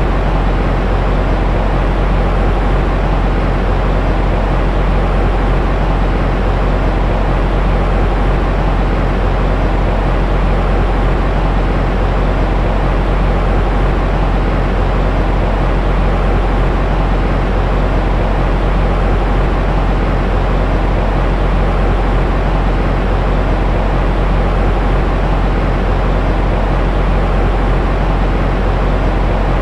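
Steady white noise for soothing a baby, a dark, even hiss-and-rumble that is heaviest in the low end with little high treble, unchanging with no breaks.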